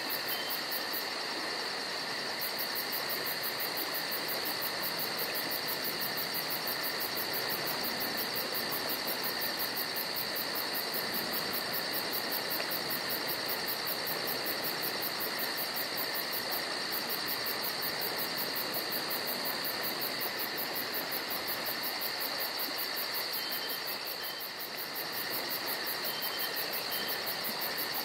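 Steady chorus of crickets, a continuous high, fast-pulsing trill over a faint hiss, with a few short faint high chirps near the start and again near the end.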